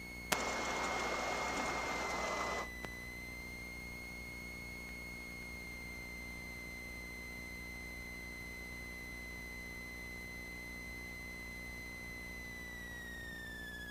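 Cessna 182 cockpit audio as heard through the headset intercom: a steady high whine over a faint low engine hum. Shortly after the start, a burst of radio static opens with a click and cuts off suddenly about two and a half seconds later.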